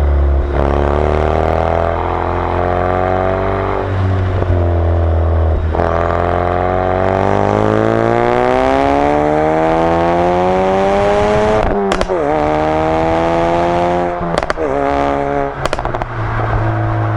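2016 Ford Focus RS Mk3's 2.3-litre turbocharged four-cylinder exhaust, heard from behind the car: the revs climb, drop at a gear change, then climb in one long pull. On lifting off about twelve seconds in it gives sharp pops and crackles, with more crackles a couple of seconds later as the revs fall, before settling to a steady low note.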